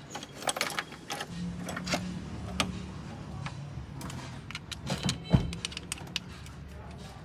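Sharp metallic clinks and clatter of mechanic's hand tools and small metal engine parts being handled, a dozen or so irregular taps, over a low steady hum.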